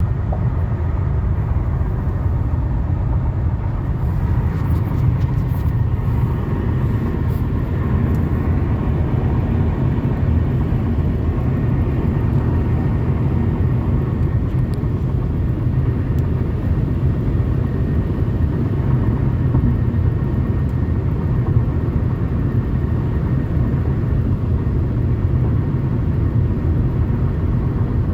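Steady road and drive rumble inside a moving Toyota Camry, with faint intermittent clicks, mostly about four to eight seconds in. These are the driver's door rattle.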